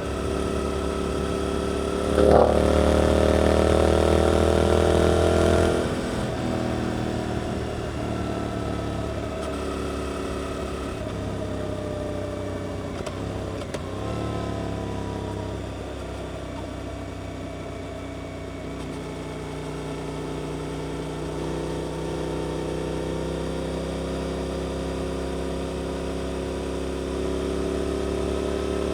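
Suzuki GSX-8S parallel-twin motorcycle engine through an Arrows aftermarket exhaust, heard while riding. About two seconds in the engine comes on hard, its note rising under acceleration. It backs off around six seconds in, then runs at part throttle with its pitch slowly sinking and later rising again as it picks up speed.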